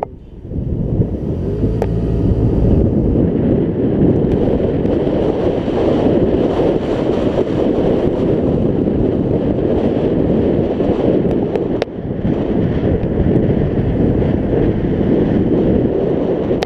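Wind buffeting the microphone while riding a scooter, a loud steady rumble, with the scooter's engine faintly audible beneath it in the first few seconds.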